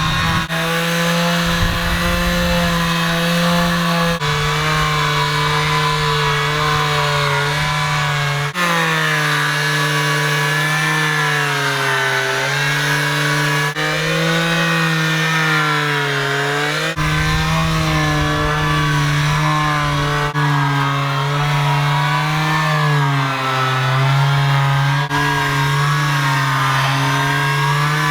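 Electric power sander running against a boat hull, a steady motor whine whose pitch wavers up and down as it is pressed and moved. It breaks off and resumes every few seconds.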